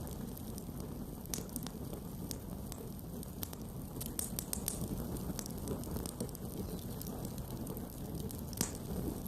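Wood campfire burning: a steady low rumble of flames with scattered sharp crackles and pops, one louder pop near the end.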